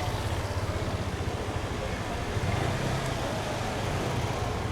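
Steady low rumble of vehicles on a city street, with a hum underneath.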